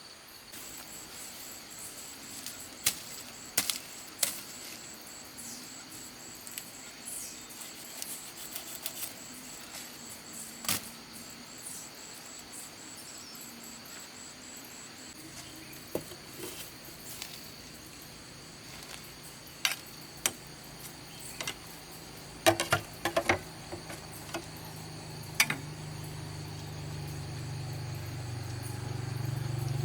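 Insects chirring steadily, with scattered sharp clicks and knocks, and a low hum that comes in about halfway and grows louder toward the end.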